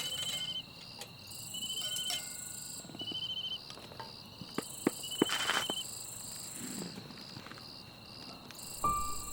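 Insects chirping in short repeated pulsed trills over a steady higher insect drone, typical of crickets, with a few sharp clicks and knocks in between. Music with held tones begins near the end.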